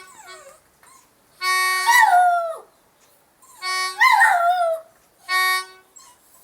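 A dog howling along with short held notes of a reedy, harmonica-like instrument: the notes sound about three times at one steady pitch, and twice the dog joins in with a long falling, wavering howl.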